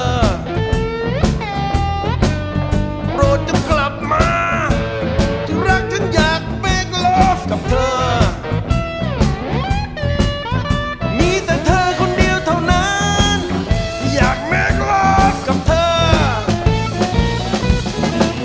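Blues instrumental break: an electric slide guitar plays a lead with gliding, bending notes over bass and drums.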